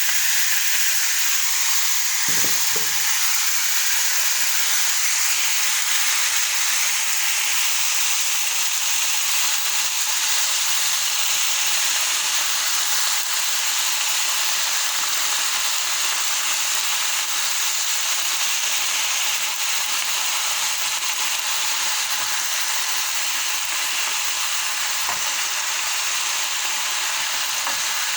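Water hyacinth stems sizzling as they are stir-fried in a hot pan: a steady hiss, with a brief low knock about two seconds in.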